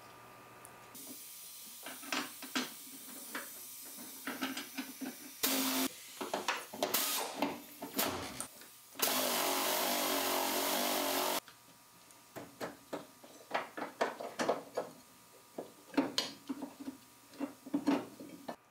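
Scattered clicks and knocks of things being handled, with a steady whirring machine noise for about two seconds in the middle that stops abruptly.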